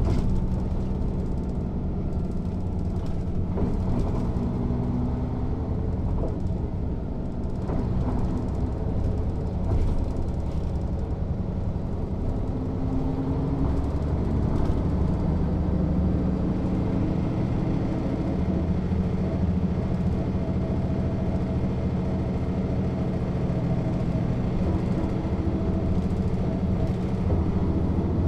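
Mercedes-Benz O 407 city bus, with its underfloor six-cylinder diesel, running steadily while under way. The engine note rises briefly around the middle.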